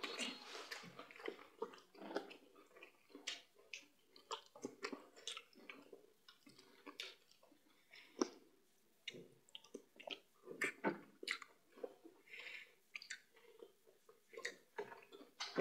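Faint eating sounds of two people eating fufu and soup by hand: soft chewing, with scattered short wet mouth clicks and smacks.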